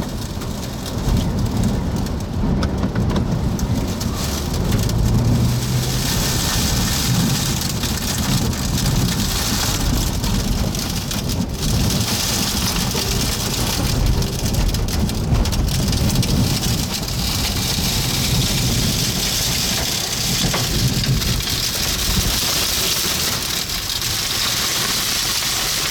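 Strong wind near a tornado rumbling on the microphone, with a steady hiss of rain or blown dust pelting that grows louder about six seconds in.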